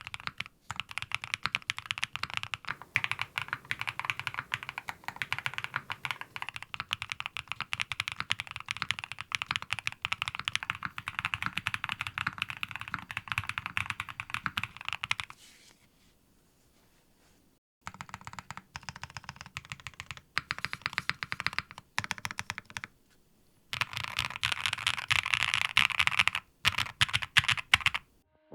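Typing on a Neo65 Core Plus mechanical keyboard with a copper bottom weight: a fast, steady run of key clacks, a silent pause of about three seconds about halfway through, then two shorter bursts of typing.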